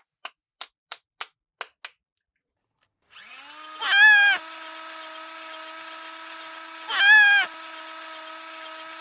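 Several quick plastic clicks, then a battery-powered toy from a doctor playset switches on about three seconds in with a steady electronic buzzing hum. A louder warbling tone that rises and falls sounds twice over the hum.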